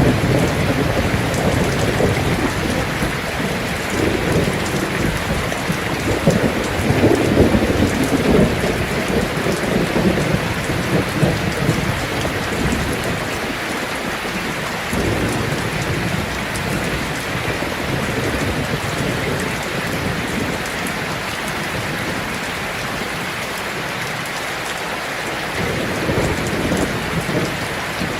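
Heavy rain falling on a tin roof in a steady hiss, with low rolling thunder that swells about seven seconds in, fades by about thirteen seconds, and rumbles again near the end.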